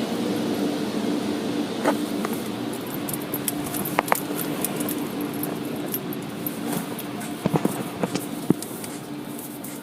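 Car wash machinery heard from inside the car: a steady hum under a wash of noise, with scattered clicks and taps, slowly growing fainter.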